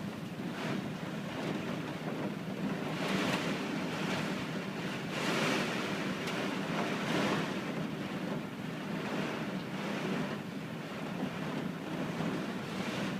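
Strong typhoon wind rushing through a garden tree's leaves and branches, swelling and easing in gusts, with wind buffeting the microphone.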